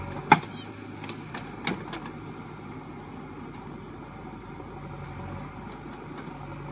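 JCB backhoe loader's diesel engine running steadily at low revs, with a few sharp knocks in the first two seconds, the loudest about a third of a second in.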